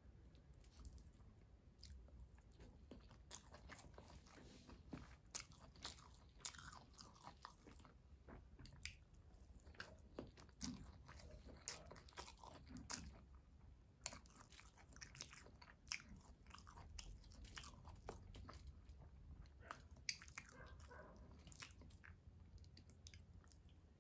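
Chewing of mutton biryani eaten by hand, a run of many short wet clicks and smacks at an uneven pace.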